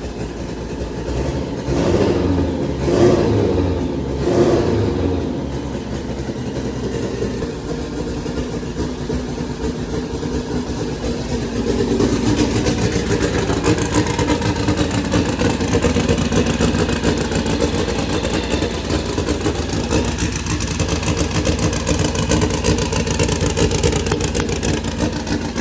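A 2180cc turbocharged, fuel-injected VW engine running on E85, blipped three times in quick succession early on, then running steadily at a slightly raised speed.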